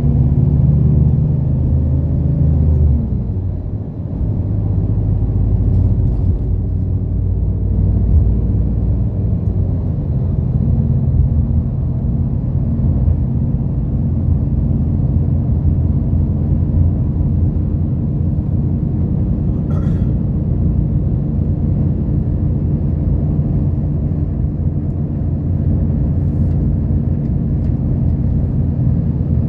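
Inside a route bus under way: the diesel engine's steady low drone and road rumble. About three seconds in, the engine note falls and briefly drops away, then settles into a steady run. A single short click about two-thirds of the way through.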